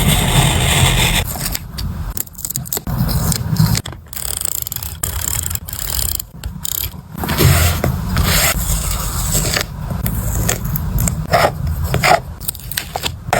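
Close-up journaling craft handling sounds: paper and stickers scraping and rubbing, broken by short crisp clicks and taps.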